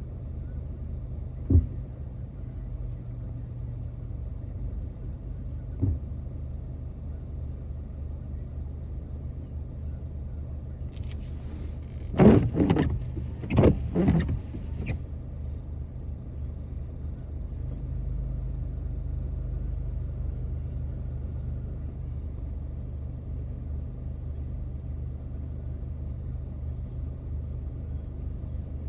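Car driving through city streets: a steady low rumble of engine and tyres, with a couple of small thumps and a short cluster of louder, sharper sounds about halfway through.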